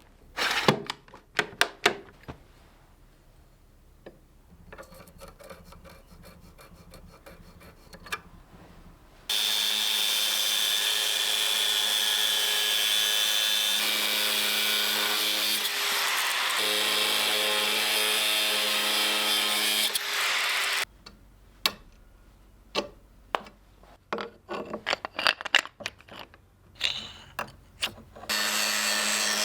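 Scattered knocks and taps of tools and workpiece being handled, then a power tool runs steadily with a pitched hum for about eleven seconds and stops. More knocks follow, and the tool starts up again near the end.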